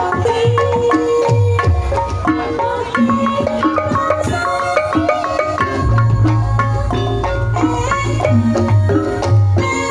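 Ebeg accompaniment music played live: keyed percussion instruments struck in quick melodic patterns over hand drums. A deep low tone comes in about six seconds in and holds under the melody.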